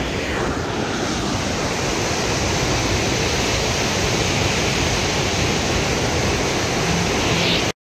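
Düden Waterfall's heavy flow of water crashing down, a loud steady rushing din at close range. It cuts off suddenly near the end.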